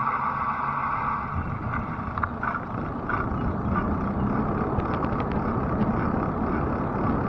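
Fat-tire electric bike riding: a steady rumble of tyres and wind, with a steady whine over the first two seconds, a lower hum later, and a scatter of sharp clicks from about two to five seconds in.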